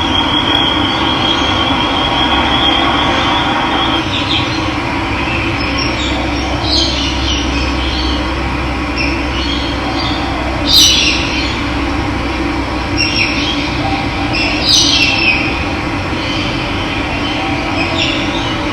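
Steady rush of running water with wild birds chirping over it now and then; the loudest chirp comes about eleven seconds in. A thin high trill runs through the first four seconds.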